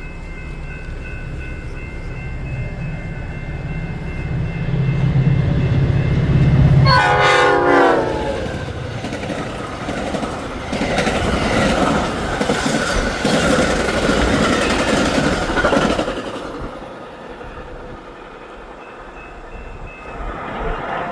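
Metra diesel commuter train passing at speed: the locomotive's engine hum builds, a loud tone sweeps sharply downward in pitch as the locomotive goes by, then the passenger cars rumble and clatter past for several seconds before cutting off, leaving a quieter fading rumble.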